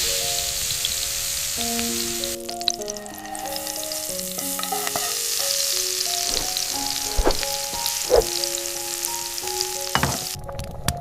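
Food frying in a pan, sizzling loudly for the first couple of seconds and then more quietly, with a few sharp knocks in the second half. Soft background music of held, melodic notes plays throughout.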